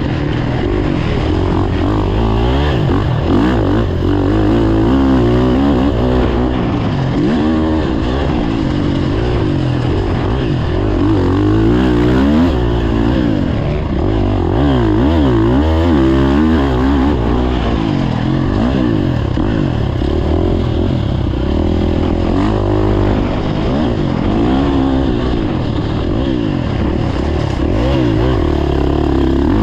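Several motocross dirt bikes racing together, their engines revving up and down through the gears, with the pitches of different bikes rising, falling and crossing each other.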